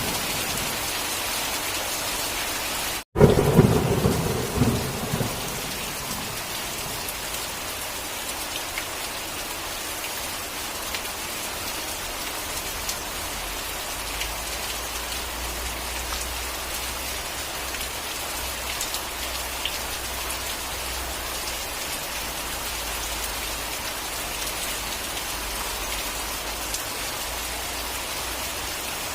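Steady rain with thunder. A rumble fades away at the start, the sound cuts out for an instant about three seconds in, then a loud thunderclap rumbles for about two seconds before the rain carries on alone.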